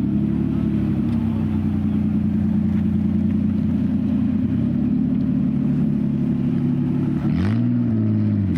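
Car engine idling steadily with a deep rumble, then a short rev about seven seconds in that rises and falls back toward idle.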